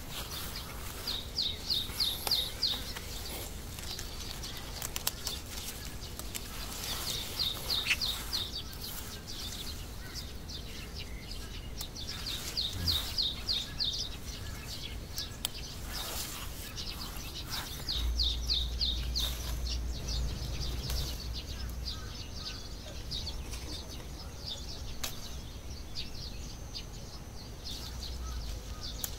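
A songbird repeating a short, fast trilled phrase about every five or six seconds, over steady outdoor background noise, with a low rumble for a few seconds past the middle.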